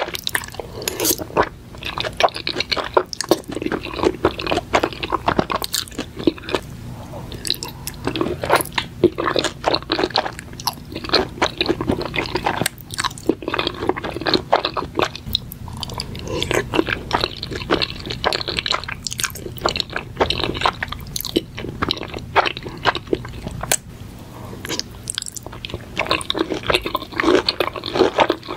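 Close-miked chewing of mouthfuls of creamy spaghetti alfredo with shrimp and mushrooms, full of many quick, irregular mouth clicks.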